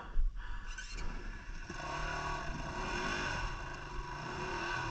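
Dirt bike engine running steadily, with a short clatter near the start.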